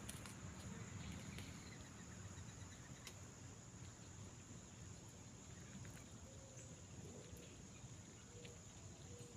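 Faint outdoor ambience: a steady high-pitched hum, likely insects, over low rumble, with a few faint short bird calls in the second half.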